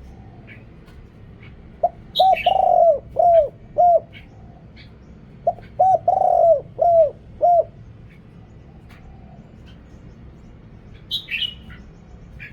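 Spotted dove cooing: two phrases of about five coos each, a couple of seconds apart, each with a longer, louder coo in the middle. Small birds chirp faintly in between, with a sharper chirp near the end.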